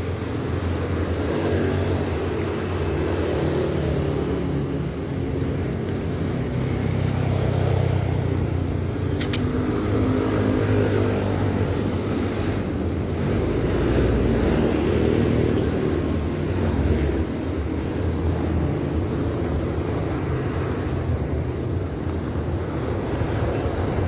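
Steady road noise heard from a moving bicycle: wind rumbling on the microphone together with motor traffic. A brief sharp tick sounds about nine seconds in.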